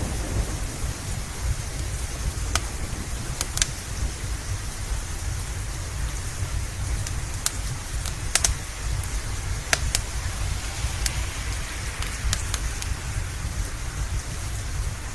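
Steady rain with a deep low rumble underneath. A crackling wood fire adds sharp pops at irregular intervals, a few close together around the middle.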